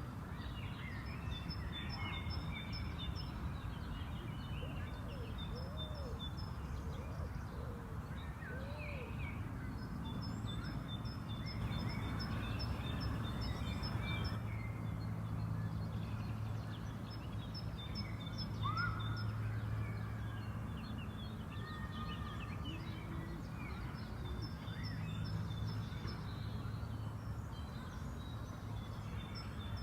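Several birds singing and calling outdoors: repeated phrases of quick high chirps recurring every few seconds, with other shorter calls in between, over a steady low hum.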